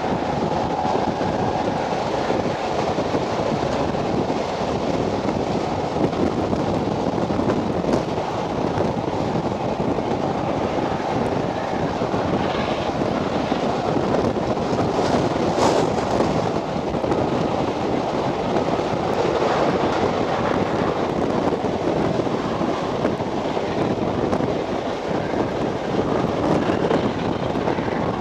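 Wind buffeting a microphone held out of a moving carriage window, over the steady running noise of a steam-hauled train on the rails.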